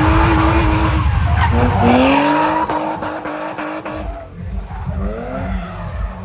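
Competition car's engine revving hard on a gymkhana course. The pitch climbs, falls back about two seconds in and climbs again, then drops and rises once more near the end, with tyres skidding.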